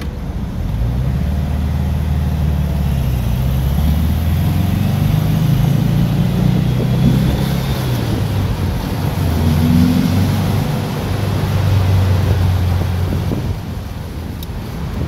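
1959 Porsche 356A's air-cooled flat-four engine, heard from the open cabin while driving, its pitch climbing under acceleration and dropping at each gear change, several times over.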